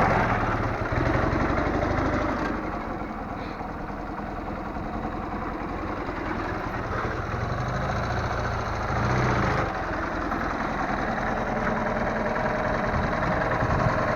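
Soviet opposed-twin motorcycle engine idling, running on steadily with small swells in level.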